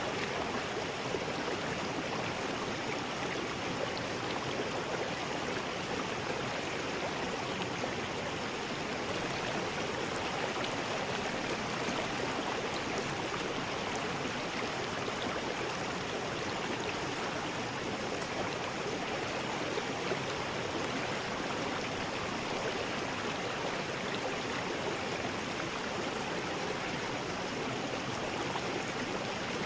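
River rapids rushing: a steady, even wash of water noise with no pauses or surges.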